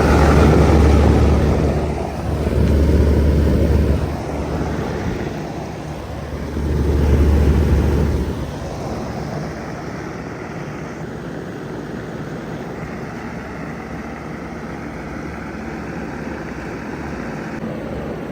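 Vintage ZoneAire wall-mounted heat pump running in cool mode. A loud low hum swells three times over the first eight seconds, then the unit settles into a steady run.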